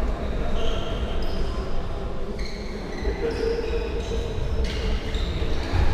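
Sounds of a football match being played in a large hall: the ball bouncing and being kicked, with short high squeaks on and off and a low rumble throughout.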